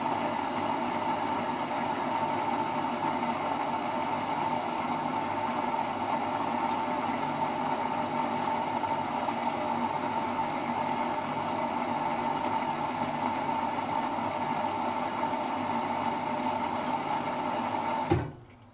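Servis Automatic M3008B washing machine running steadily with a hum during the first rinse of its cycle, then stopping abruptly with a short knock about eighteen seconds in.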